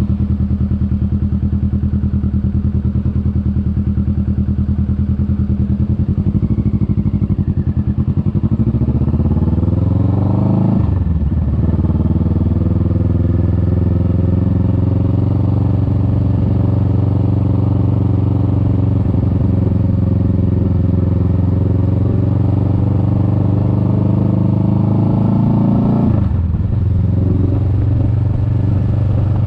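Kawasaki Vulcan S 650's parallel-twin engine pulling under way, rising in pitch as it accelerates and dropping sharply with an upshift about 11 seconds in and again near the end.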